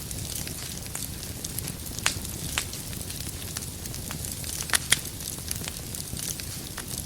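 Wood fire crackling in a fireplace: a steady low rumble of burning with scattered sharp pops from the firewood, the loudest a quick pair a little past the middle.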